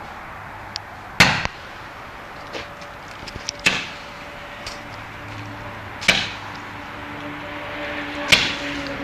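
Fireworks going off: four loud bangs about two and a half seconds apart, each trailing off in an echo, with a few smaller cracks between the first two.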